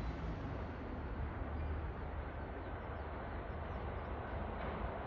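Sotetsu 12000 series electric train running, a steady rumble.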